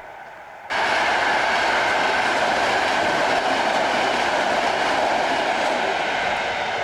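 Train passing at speed, a steady noise of wheels running on rails. It begins abruptly about a second in and eases off toward the end.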